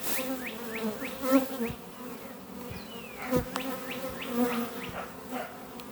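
Honeybees buzzing in a steady hum around an opened hive, stirred up by the colony being split. A few sharp clicks about halfway through.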